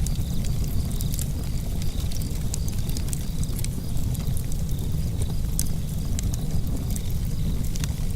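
Wood fire crackling in a fireplace: frequent small sharp pops and snaps over a steady low rumble of burning.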